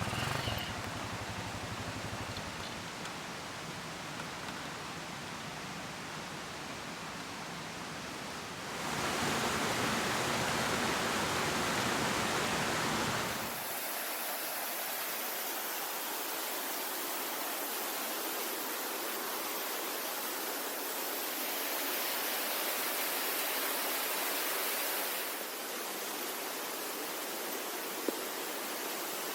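Waterfall rushing: a steady roar of falling water whose level and tone shift abruptly a few times, louder from about 9 to 14 seconds in.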